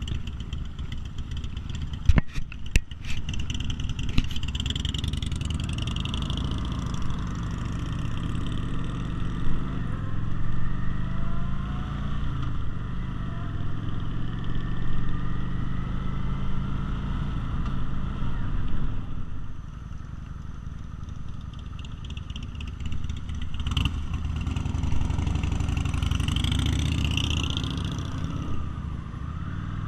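V-twin cruiser motorcycle engines running on the road, their pitch rising and falling with throttle and gear changes. A few sharp knocks come about two seconds in, and there is a quieter stretch past the middle.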